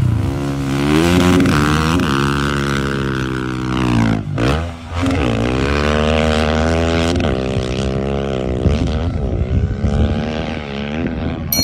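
Motorcycle engines running and revving, their pitch rising and falling with the throttle, with a brief drop about four and a half seconds in.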